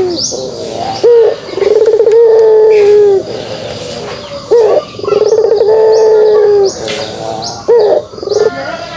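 A puter pelung (domestic ringneck dove) giving its long 'kugeruk' coo. A short upswept note leads into a long, steady low coo, heard twice, with a few short notes near the end.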